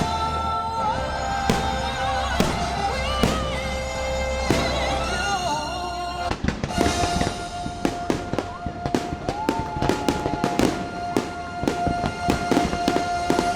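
Fireworks bursting over the show's music soundtrack: scattered booms in the first half, then a dense run of rapid pops and crackles from about six seconds in, under a long held note in the music.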